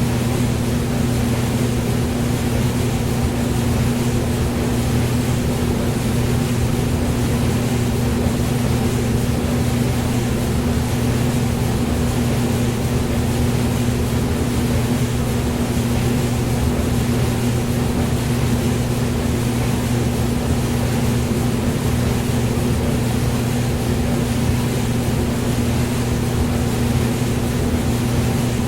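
Hair dryer running steadily, a constant motor hum with an even airy hiss over it and no change in pitch or level.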